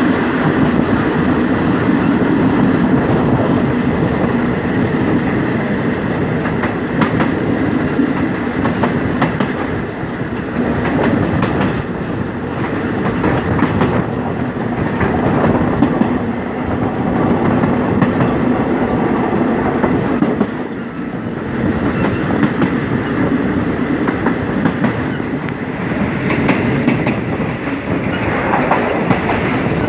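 Express passenger train running at speed, heard from on board: a steady rumble of wheels on the rails, with scattered clacks of the wheels over the rail joints.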